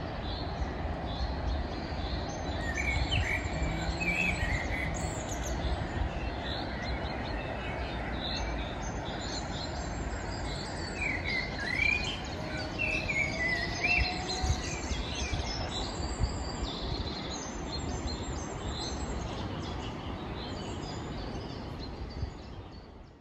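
Songbirds chirping and singing, with short calls and quick trills repeating throughout, over a steady low background rumble.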